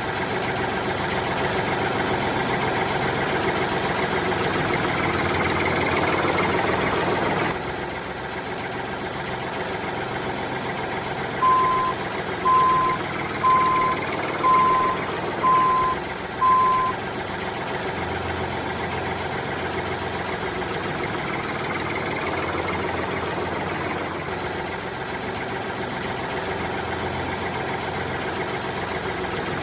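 A vehicle engine running steadily, with a reversing alarm beeping six times, about once a second, partway through.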